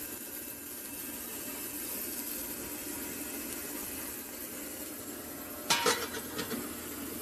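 Ultrasonic cleaner running with its bath heated, giving a steady hiss. Near the end a brief clatter of a few sharp knocks stands out above it.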